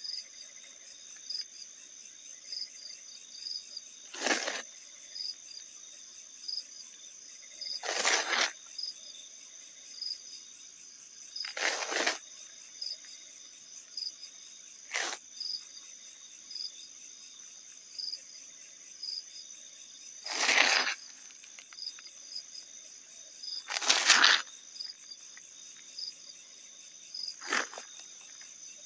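Insects, crickets among them, chirring steadily at a high pitch, with a pulsing chirp underneath. Seven short rushing noise bursts, each under a second, break in a few seconds apart and are the loudest sounds.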